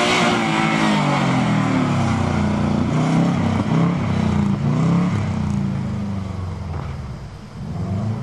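Car engine revving hard, its pitch rising and falling several times as the throttle is worked through a slide on snow, fading somewhat near the end.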